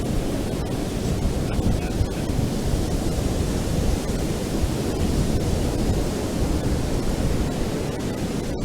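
Ocean surf washing steadily onto a beach, a continuous deep rush with no single wave standing out, with wind buffeting the microphone.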